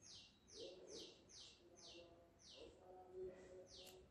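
Faint birdsong: a bird gives a quick run of about six high falling chirps, then one more near the end, with a second bird's low calls beneath.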